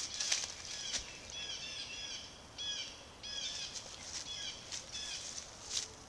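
A songbird singing phrases of short, quickly repeated falling notes, with a few brief rustles or clicks.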